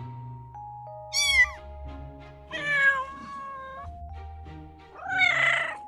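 Domestic cat meowing three times: a short call about a second in, a longer drawn-out one, and a third near the end, over soft background music.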